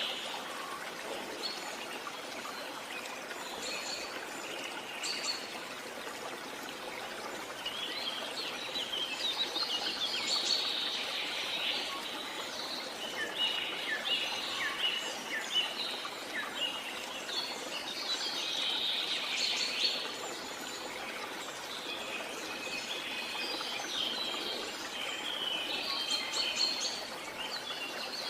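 Steady rush of jungle waterfall water, under bird chirps that come in rapid clusters of short, high notes, densest through the middle and near the end.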